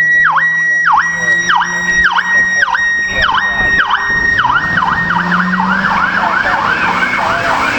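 Emergency vehicle's electronic siren: a high held tone that dips sharply and climbs back about one and a half times a second, the dips coming faster, about three a second, in the second half. A low steady hum runs underneath.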